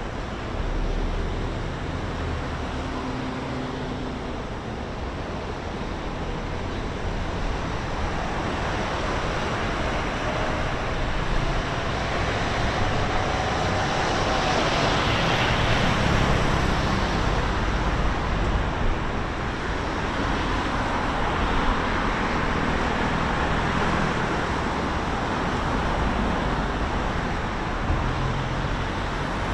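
Road traffic running steadily, with vehicles swelling past. The loudest pass comes about halfway through, and another follows a few seconds later.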